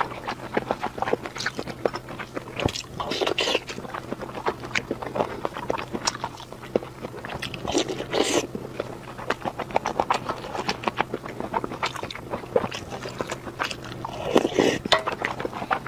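Close-miked eating sounds: a person biting into and chewing a piece of food soaked in chili oil, with many short wet mouth clicks and smacks.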